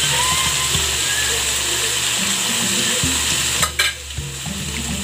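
Coated leche frita (fried milk) pieces sizzling steadily in hot oil in a pan. A short sharp knock comes about three and a half seconds in.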